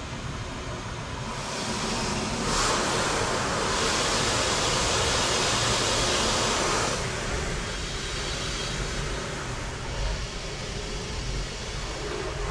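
Automatic car wash running over a car: a low machine rumble with a rushing hiss that swells about two seconds in and eases off around seven seconds.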